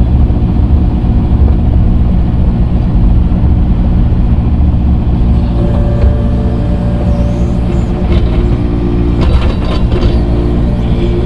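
Earthmoving machine's engine running steadily at constant speed, with a few short metallic clanks about eight to ten seconds in.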